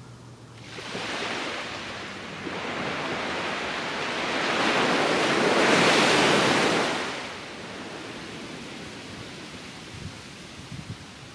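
Ocean surf on a sandy beach: a wave breaks and rushes up the shore, building from about a second in to its loudest around six seconds, then washing back out to a lower, steady wash.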